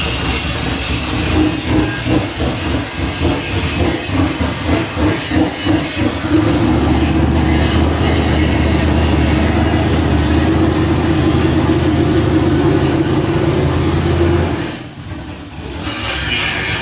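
An engine running: it pulses unevenly for the first few seconds, then holds a steady, loud drone for about eight seconds before dropping off sharply near the end.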